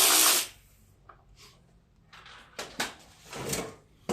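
A tool tightening a 10 mm nut on a throttle cable stops about half a second in. Then come a few small clicks and knocks as metal parts and tools are handled and set down.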